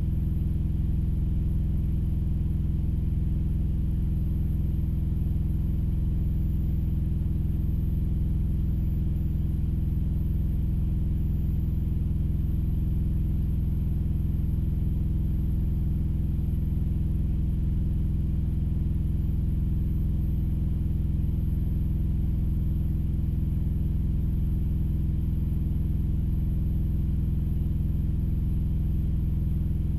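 A vehicle engine idling with a steady low rumble, heard from inside the cab.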